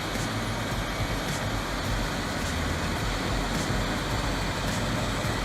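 Heavy diesel wood-processing machine running steadily, a constant engine drone with a faint high tick about once a second.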